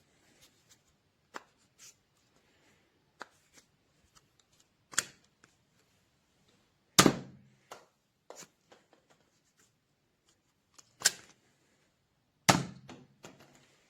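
Plastic clicks and knocks from handling a NERF Elite 2.0 Ace SD-1 toy dart blaster, with three much louder sharp snaps, about 7, 11 and 12.5 seconds in.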